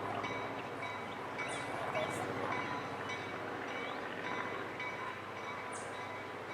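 Train running along the track: a steady rumble with a few brief high squeaks.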